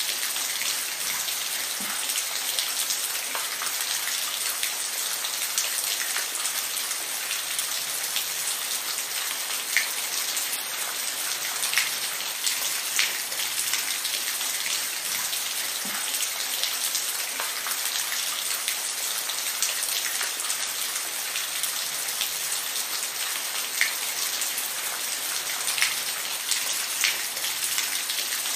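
Steady rain falling, an even hiss with many scattered individual drops ticking on a surface.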